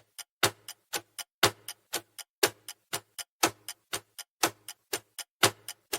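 Countdown timer sound effect of a clock ticking, about four ticks a second with a louder tick once each second.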